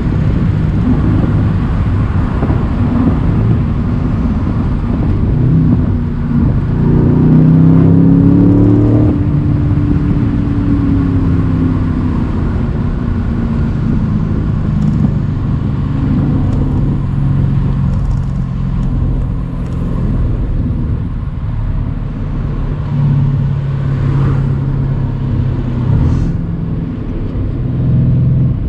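Mercedes-AMG C63's twin-turbo V8 under way with the roof open, running at a steady cruise. About seven seconds in it pulls harder, its note rising and getting louder, then eases off and falls back to a steady run, with wind and road noise throughout.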